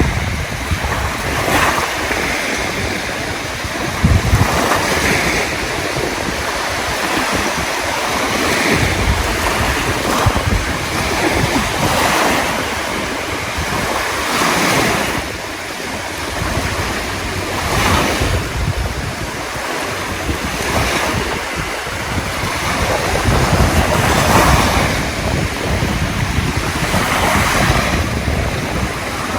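Waves washing in, surging every few seconds, with wind rumbling on the microphone.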